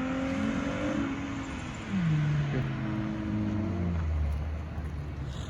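A car engine running hard, its note falling in steps: a sharp drop in pitch about two seconds in as it gets louder, then settling to a low hum that fades near the end.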